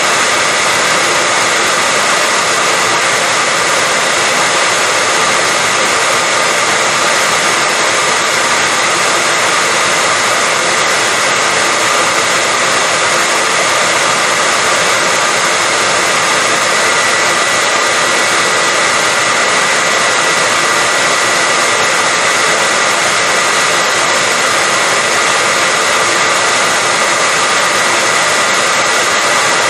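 Hair dryer running steadily: a constant, loud rush of blown air with a steady whine in it, unchanging throughout.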